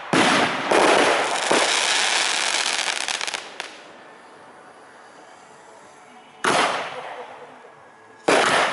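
Aerial firework shells bursting: three sharp bangs in the first second and a half, then a crackling tail, a lull of about two seconds, and two more bangs, one about six and a half seconds in and one near the end.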